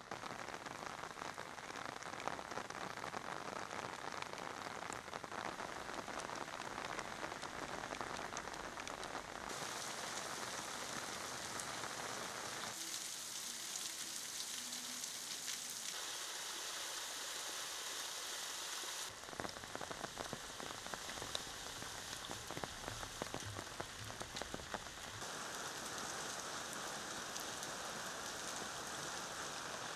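Heavy rain falling and splashing on the ground and on standing water, a steady hiss of raindrops. Its tone shifts abruptly several times and is thinner and hissier for several seconds around the middle.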